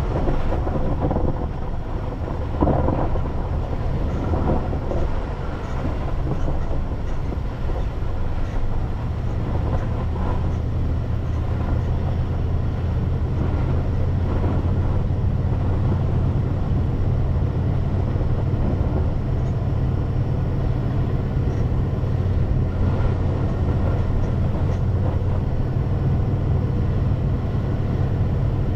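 Car driving on snow-covered roads, heard from inside the cabin: a steady low rumble of engine and tyres, with a few short knocks and rattles in the first few seconds.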